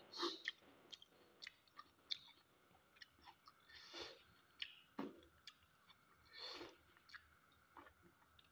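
Faint eating sounds: chewing a mouthful of fish curry and rice, with scattered soft smacks and clicks, a few slightly louder ones about four, five and six and a half seconds in.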